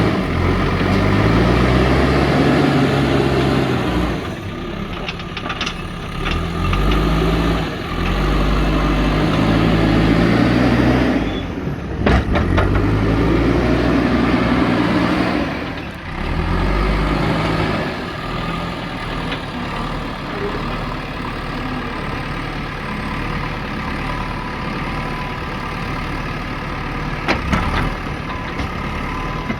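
JCB backhoe loader's diesel engine revving up and down in spells of a few seconds as it works the hydraulics, then settling to a steadier, lower run. A few sharp knocks come about twelve seconds in and again near the end.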